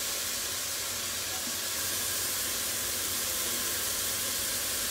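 Mushrooms frying on a very high flame in a pot, a steady sizzle.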